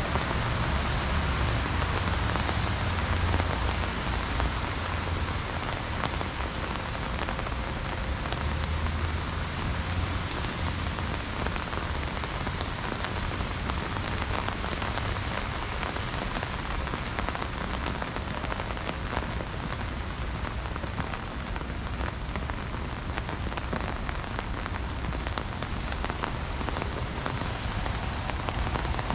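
Heavy rain falling steadily, a dense hiss of drops with scattered individual drop ticks, over a steady low rumble.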